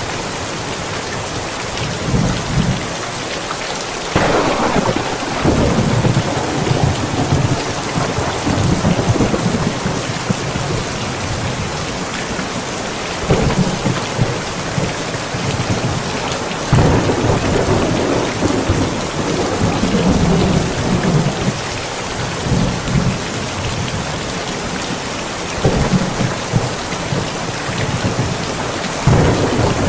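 Steady rain falling, with thunder rumbling in repeated rolls over it. The longest rolls come from about four to nine seconds in and from about seventeen to twenty-three seconds in, with shorter ones in between.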